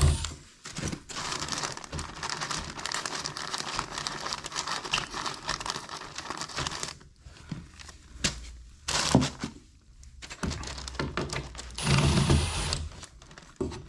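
Crinkling and crumpling of a crinkly sheet material being handled. It runs for about seven seconds, then goes on in short bursts.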